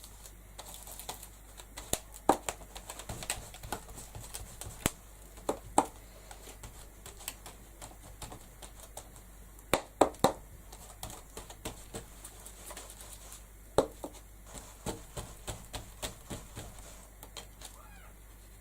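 Irregular light taps and rubbing of an ink blending tool worked over a stencil on paper, with a couple of sharper knocks about ten seconds in and another near fourteen seconds.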